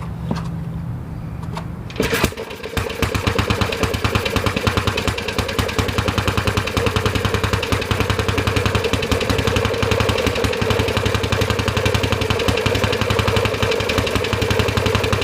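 Briggs & Stratton Model FH single-cylinder four-stroke engine catching on a cold start about two seconds in, after a steady low hum, then running on with a fast, even firing beat.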